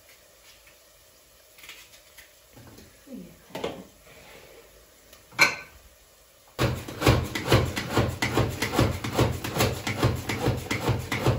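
A few knocks as an electric food chopper is set up. About halfway through its motor starts, with a loud fast rattle as the blades chop onions fine.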